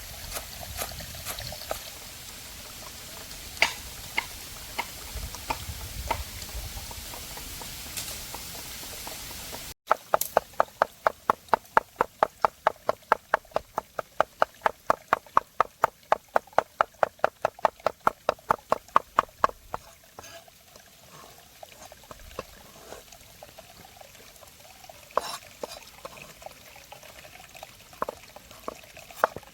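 Water trickling and pouring with a few light clicks. Then, about ten seconds in, a steady run of sharp knocks, about four a second, for roughly nine seconds, typical of a knife chopping food on a wooden board. After that come scattered lighter knocks and handling sounds.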